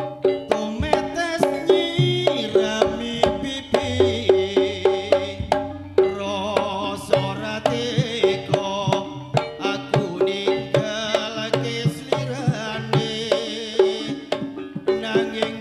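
Live Javanese gamelan-style dance music: hand drums beat a steady rhythm under dense, fast strikes on ringing metallophones, with a wavering melody line above.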